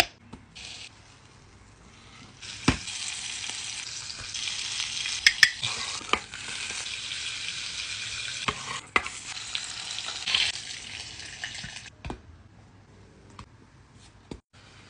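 A beef burger patty sizzling in a small electric cooking pot, a steady hiss that starts about two and a half seconds in and stops about three seconds before the end. It is broken by a few sharp clicks and knocks, and the pot's power plug clicks into its socket at the very start.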